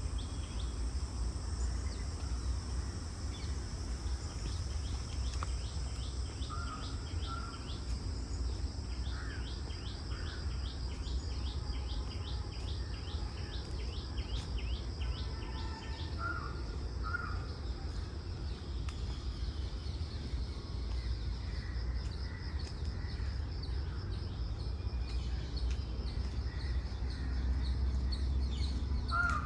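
Morning park ambience: birds chirping and calling, with a fast run of repeated chirps in the first half and a few short calls, over a steady high insect drone and a constant low rumble.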